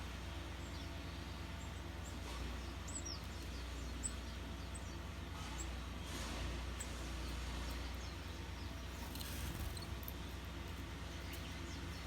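Small wild birds giving short, high chirps now and then over a steady low hum.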